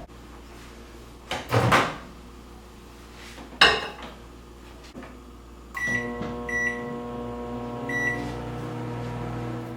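Microwave oven door being handled with two knocks, the second a sharp shutting clack, then three short keypad beeps and the oven starting up with a steady hum.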